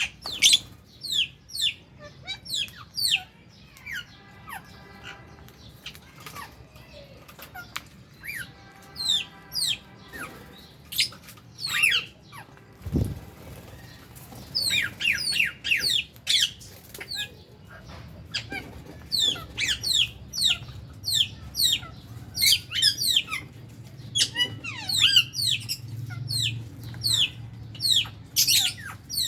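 A flock of aviary lovebirds chirping: a dense run of shrill, quick, falling calls, with buzzier, harsher calls twice in the first ten seconds. A single low thump comes about 13 seconds in.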